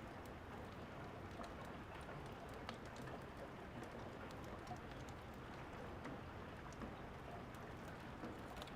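Steady rain falling, mixed with scattered small pops and clicks of a crackling wood fire.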